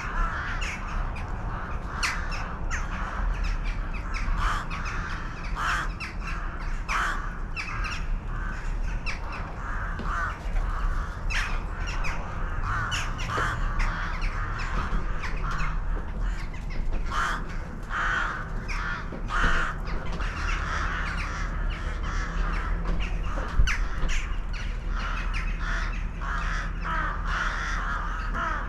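A flock of crows cawing, many harsh calls overlapping in a constant chatter, over a steady low rumble.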